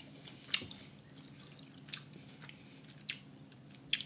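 A person chewing rotisserie chicken, with four short wet mouth clicks spread across a few seconds over a faint low hum.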